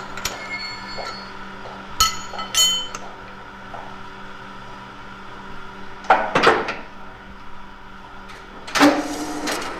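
A small electric motor hums steadily, as in a home-made model machine. Sharp clinks come about two seconds in, and two louder scraping rattles of hard material come about six and nine seconds in.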